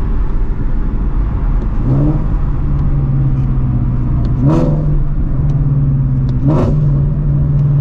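Straight-piped 2016 Shelby GT350's 5.2-litre flat-plane-crank V8, on long-tube headers, running steadily at cruise, heard from inside the car. Its pitch briefly rises three times, at about two, four and a half and six and a half seconds, as the throttle is opened.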